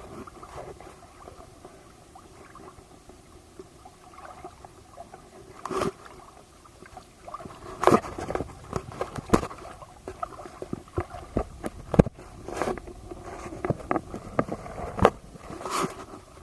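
Water slapping and splashing against a small boat, with irregular knocks and clunks at uneven intervals.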